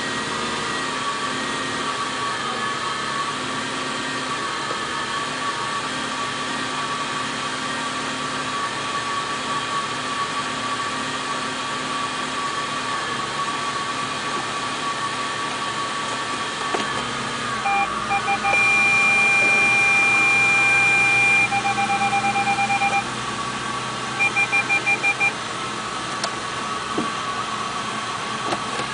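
Audi A8 engine idling steadily after a cold start, an idle the owner calls rough. About two-thirds of the way through, an electronic warning chime sounds: a held tone that breaks into rapid beeps, then a short run of quick beeps.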